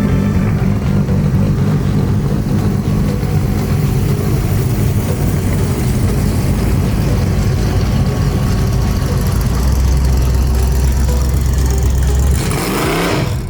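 Car engine idling with a deep, steady rumble, and a short rising sound near the end.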